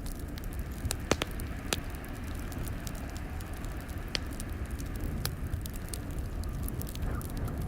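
Wood fire crackling in a fireplace, with scattered sharp pops over a steady low rumble; the loudest pops come a little past a second in.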